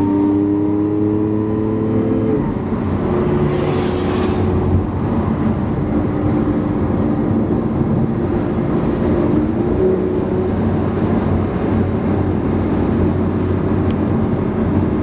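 Lamborghini Aventador's V12 heard from inside the cabin: the engine note climbs in pitch for about two seconds, drops at an upshift, then runs steadily at highway cruising speed over constant road and wind noise.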